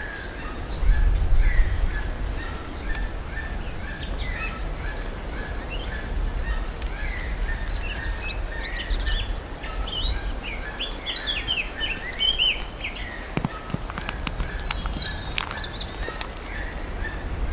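Small birds chirping: one short chirp repeats at a steady pace while other quick chirps come and go over it, above a steady low rumble.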